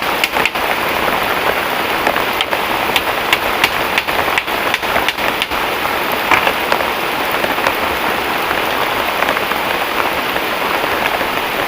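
Heavy rain falling steadily, with a run of sharp taps of drops or knocks during the first half.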